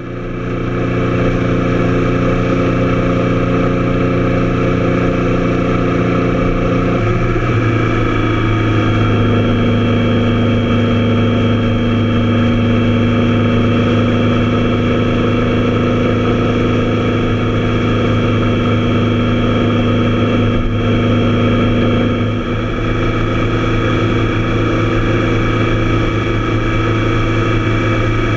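Triumph Tiger Explorer's three-cylinder engine running at a steady speed; its note changes about seven seconds in, then holds steady again.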